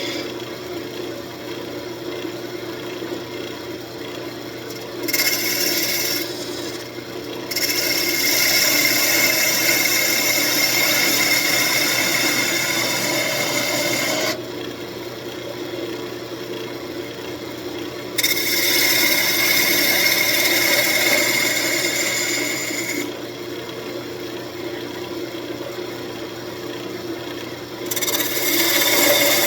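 Wood lathe spinning a walnut desk leg with a steady hum while a turning tool cuts into the wood. There are four stretches of loud hissing, scraping cuts, several seconds each, and between them quieter spells of the lathe running alone.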